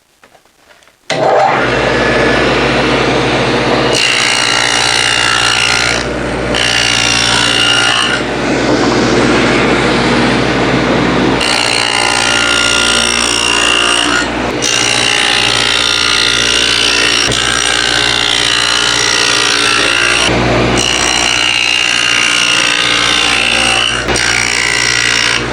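Table saw with a 1/4 inch dado blade starting up about a second in and running steadily while cutting a series of dadoes into plywood, the pitch and noise shifting briefly a few times between cuts.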